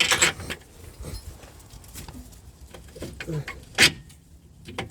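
Steering rack assembly being worked into place under the car: metal scraping and clicking as it is handled, with one sharp knock about four seconds in.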